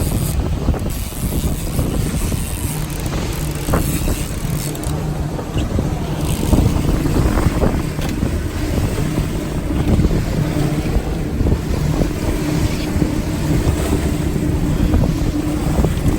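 A 250 hp outboard motor running at a steady trolling pace, a low hum that holds one pitch, with wind buffeting the microphone.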